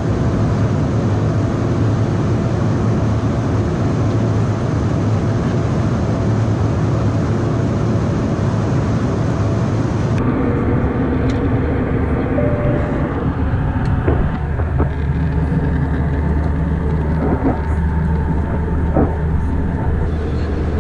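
A loud, steady vehicle rumble with hiss. About halfway through, the hiss drops away suddenly, and a few light clicks and knocks follow.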